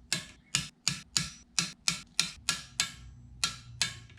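Torque wrench with a 10 mm socket ratcheting exhaust manifold bolts on their final 18 ft-lb pass: a quick series of about a dozen sharp clicks, roughly three a second, stopping just before the end.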